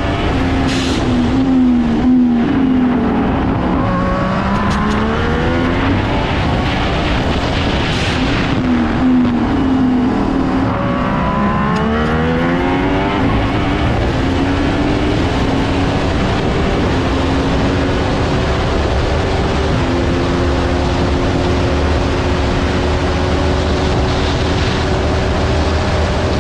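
Onboard sound of a Haas Formula 1 car's 1.6-litre turbocharged V6 at racing speed, its note dropping through downshifts on braking and rising again twice, then a long pull that climbs steadily with a gear change about twenty seconds in. Sharp bursts come on the decelerations, which the uploader likens to a big turbo discharge close to the camera microphone.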